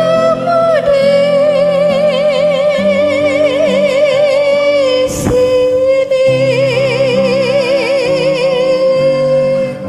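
A woman singing a long held note with wide vibrato over a karaoke backing track of sustained chords, breaking briefly about five seconds in and then holding a second long note that ends just before the close.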